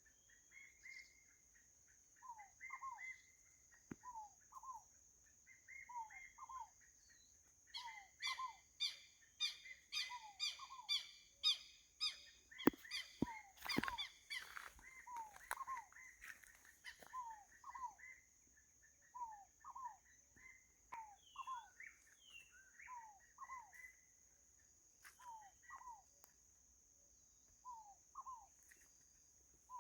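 Wild birds singing at a riverbank: one bird repeats a short two-note downslurred call every couple of seconds, and from about 8 to 13 seconds in a second bird adds a fast run of ringing notes, about three a second. A steady high-pitched drone runs underneath, with a few sharp clicks near the middle.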